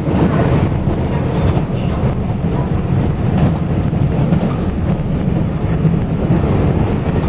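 Taiwan Railways local express train running, heard from inside the carriage: a steady, loud low rumble of wheels and running noise.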